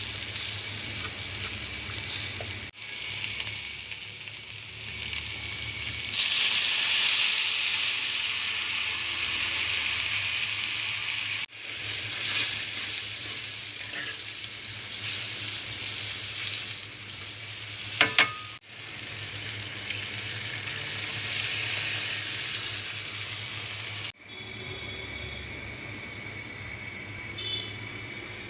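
Food frying in a pan: a hissing sizzle, heard in several short clips cut one after another, loudest a few seconds in. There are two sharp clicks a little past halfway, and a quieter, thinner hiss near the end.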